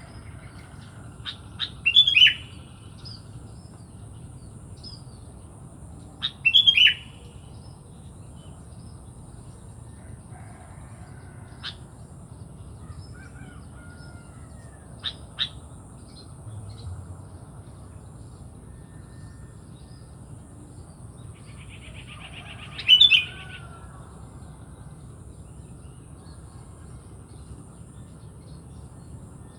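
Sooty-headed bulbul calling: three loud bursts of quick, chattering notes, the last after a long gap, with scattered single chirps in between.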